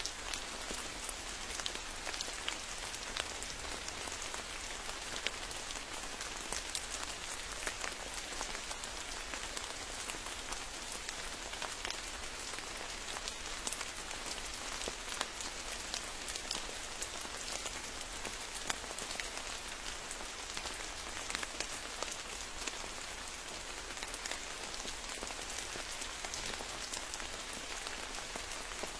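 Steady rain falling, many separate drop hits ticking over an even hiss, unchanging throughout.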